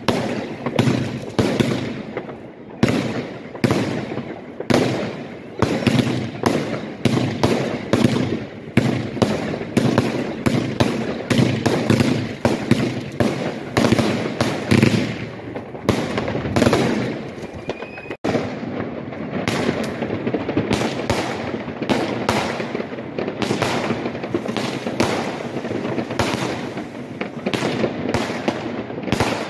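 Aerial fireworks going off in quick succession: a dense run of bangs and crackling bursts, several a second with barely a pause. There is one split-second break about eighteen seconds in.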